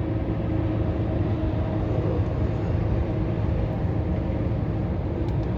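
Steady drone of a Scania R500 truck heard inside its cab while driving: a low engine hum with road noise, unchanging throughout.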